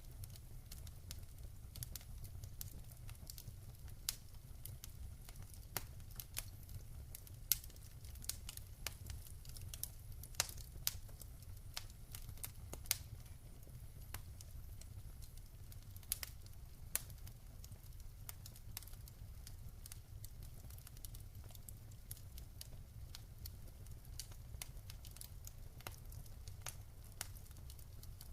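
Wood fire crackling and popping irregularly in a fireplace, with a few louder pops, over a steady low rumble and soft rain patter.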